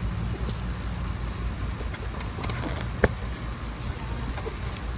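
Campfire crackling, with a single sharp pop about three seconds in, over a steady low rumble.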